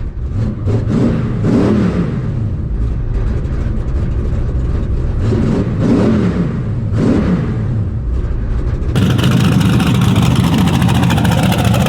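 Race truck engines revving hard at a drag strip, the pitch climbing and dropping twice as they accelerate through the gears. About nine seconds in, the sound abruptly changes to a louder, rough, rapidly pulsing engine running close by.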